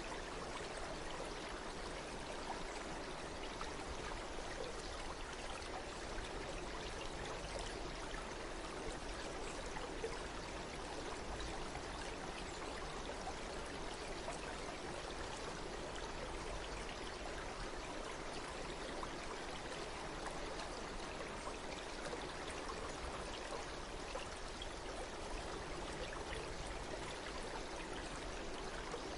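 A stream flowing steadily: an even, continuous rush of running water.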